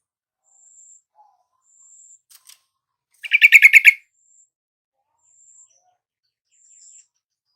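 Sooty-headed bulbul giving a short, fast burst of bubbly notes, about eight in under a second, loud against faint thin high whistles that repeat about once a second.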